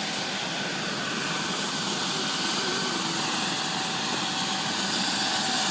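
Helicopter running on the ground before lift-off: a steady rushing noise with a thin, steady whine over it.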